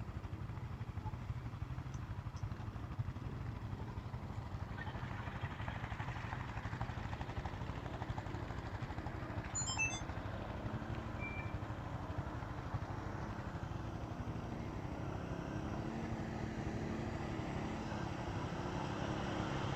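Four-wheeler (ATV) engines running at idle, with a farther engine rising and falling in pitch in the second half as a quad tows stuck machines out of the mud.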